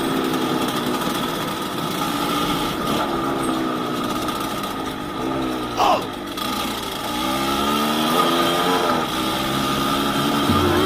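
Yamaha DT200WR two-stroke single-cylinder dirt bike engine under way, its pitch rising and falling over and over as the throttle is opened and closed. About six seconds in, a brief, sharp sound drops quickly in pitch over the engine.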